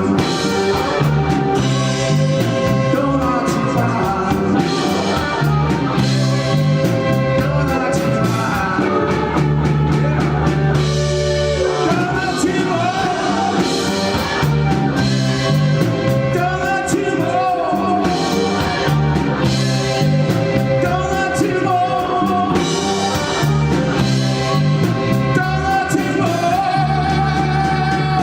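Live band playing a Korean rock song with a lead singer over the band.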